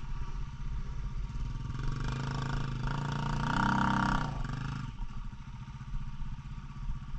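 Dirt bike engine running low, then revved harder for about three seconds with its pitch rising, before easing back off.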